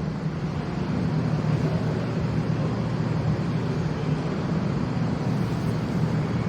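Seoul Metro Line 9 subway train in the station: a steady low rumble.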